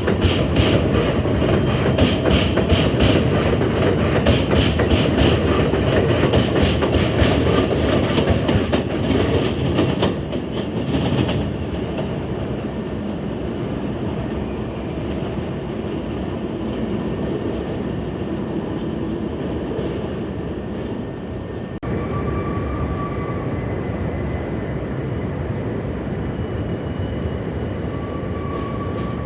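New York City subway train running through the station, its wheels clattering rapidly over the rail joints for about the first ten seconds. It then settles into a steadier, quieter rumble with a thin high whine, and the sound picks up again slightly about 22 seconds in.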